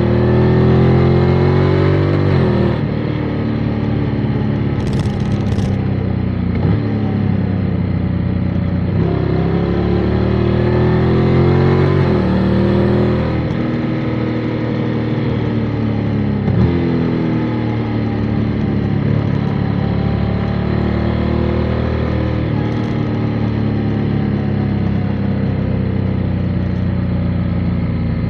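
Motorcycle engine under way, pulling up in pitch and then dropping sharply several times as it changes gear.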